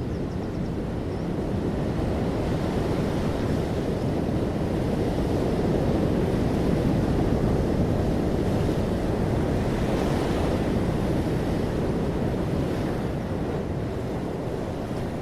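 Ocean waves breaking on the shore, a steady rushing surf that swells in the middle and eases off near the end.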